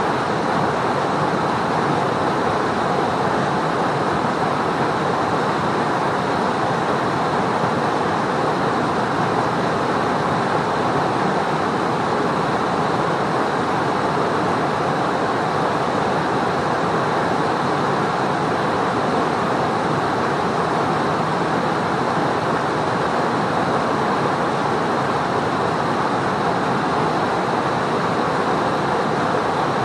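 Fast mountain river rushing under a bridge: a steady, unbroken wash of flowing water.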